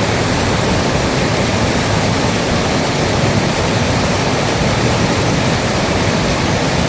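Loud, steady rush of water, an even hiss with no separate drops or strokes.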